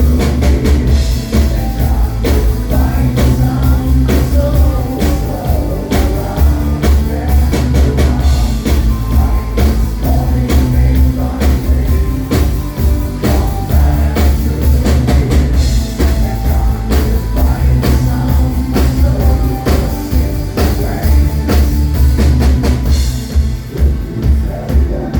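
Loud live band music: a heavy bass line and a steady drum beat under singing.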